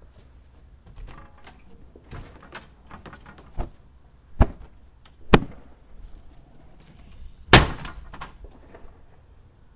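Objects being handled and put down: a string of irregular clicks, knocks and clatters, the loudest about three quarters of the way through.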